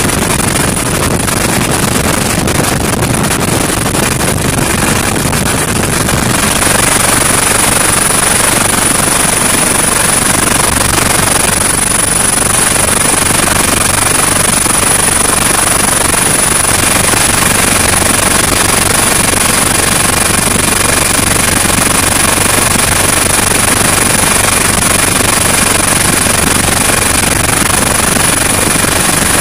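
HH-65 Dolphin helicopter in flight: a loud, steady rotor and turbine noise with a thin high whine. It grows slightly louder about six seconds in.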